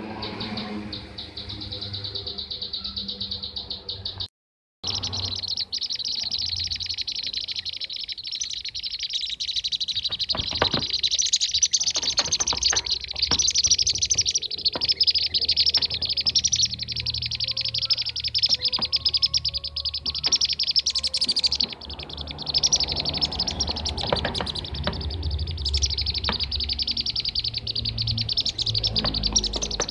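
Kirik-kirik (bee-eater) calls played as a lure recording: a dense, continuous, rapid high-pitched chattering of many overlapping calls, cutting out completely for half a second just over four seconds in.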